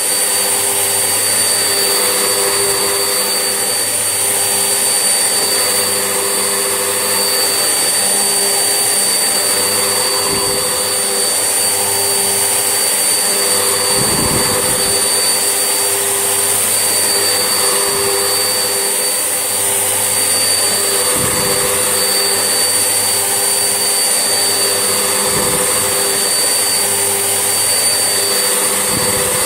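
Vax Essentials vacuum cleaner running steadily with a high motor whine while hoovering, with a brief low bump every few seconds.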